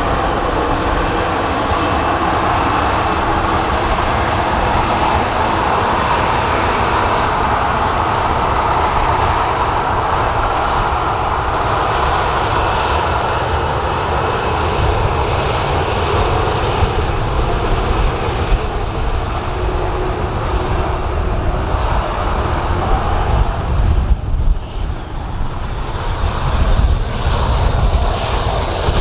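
Ryanair Boeing 737 jet engines at take-off power during the take-off roll and climb-out: a steady roar that builds to its strongest about a third of the way in, then slowly fades as the jet pulls away. Wind buffets the microphone with a low rumble, gusting harder near the end.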